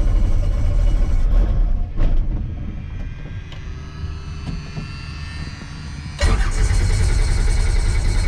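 A small tour helicopter's engine and rotor running at takeoff, heard from inside the cabin: a loud steady rumble that drops quieter about two seconds in and comes back loud around six seconds in.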